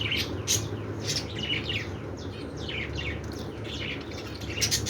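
Caged budgerigars and finches chirping: a constant run of short, high, quick chirps, over a steady low hum.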